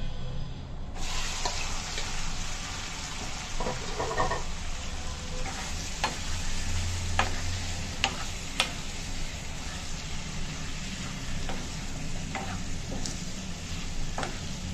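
Marinated chicken frying in hot oil in a pan: a steady sizzle starts suddenly about a second in and carries on, while a spoon stirs it with occasional sharp clicks against the pan.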